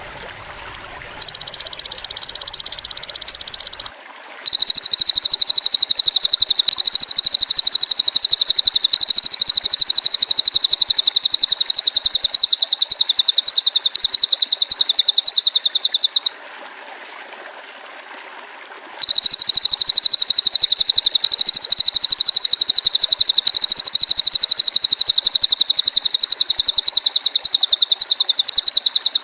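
Masteran songbird-training recording of a loud, rapid, high-pitched buzzing trill over the faint hiss of trickling water. It comes as a short trill about a second in, then a long run of about twelve seconds, a break of a few seconds with only the water, and another long run.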